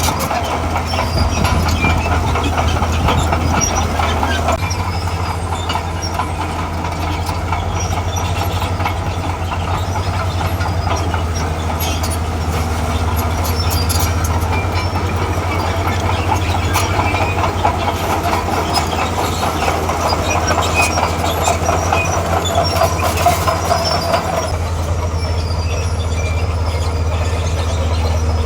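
Diesel engine of a crawler earthmover running steadily under load, with the steel tracks clanking and rattling. The engine note shifts about four seconds in and again near the end.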